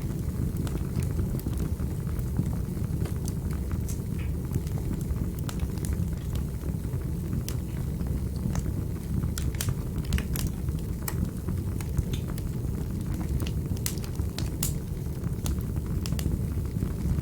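Wood fire burning in a fireplace: a steady low rush of flame with irregular sharp crackles and pops from the burning wood, several a second at their busiest.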